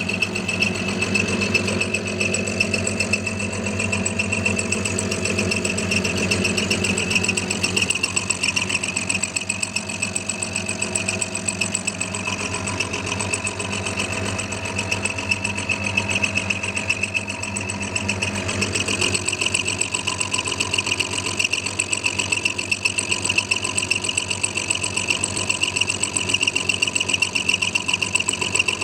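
Clarke CL430 metalworking lathe, set up as a milling machine, running a high-speed-steel dovetail cutter through a mild steel block: a steady machine whine with a fast, even pulsing from the cut.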